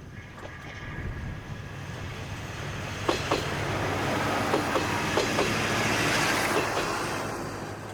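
A KiHa 200-series diesel railcar passes close by with its engine humming. Its wheels click sharply several times over the rail joints as it goes by, loudest about six seconds in and fading near the end.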